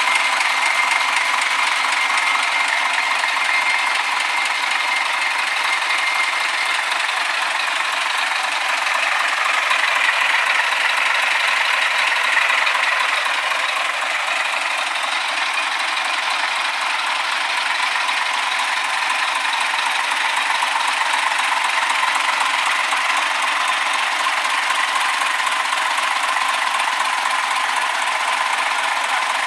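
Deutz BF12L413F air-cooled, turbocharged V12 diesel engine running steadily, with a faint steady whine over the engine noise.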